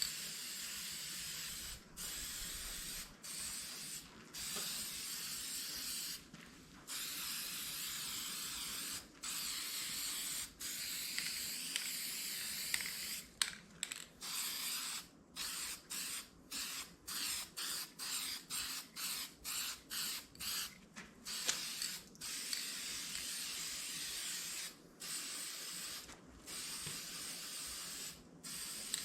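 Aerosol spray-paint can hissing in on-off bursts as paint goes onto cast weights to keep them from rusting. Several sprays lasting a few seconds, then a run of short quick bursts of about two a second through the middle, then longer sprays again.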